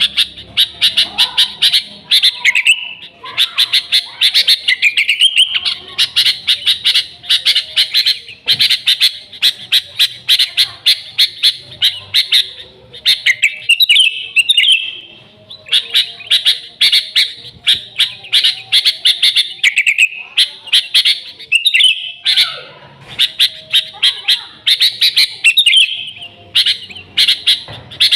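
Sooty-headed bulbul (kutilang) in vigorous, non-stop song: rapid runs of bright chirps and short warbled phrases, broken by a few short pauses.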